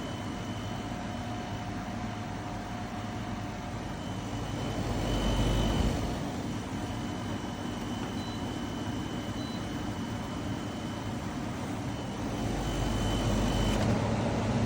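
KGOGO 7000 BTU portable air conditioner running, a steady airy fan noise with a thin high whine over it. It swells louder and deeper about five seconds in and again near the end.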